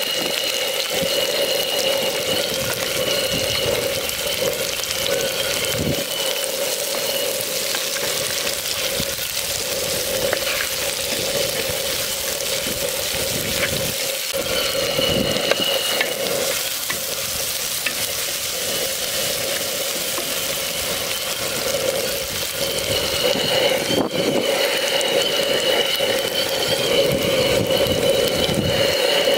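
Shallots sizzling steadily in hot oil in a clay pot, turned now and then with a wooden spatula. A thin high tone comes and goes over the sizzle.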